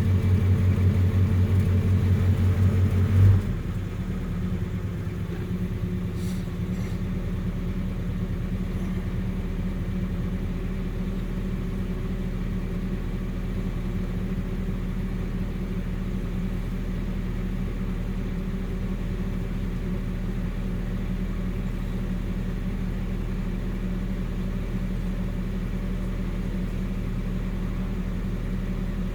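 Nissan 720 pickup's engine warming up after a cold start, running at a high, steady idle. About three seconds in there is a brief surge, and then it settles into a quieter, lower, steady idle.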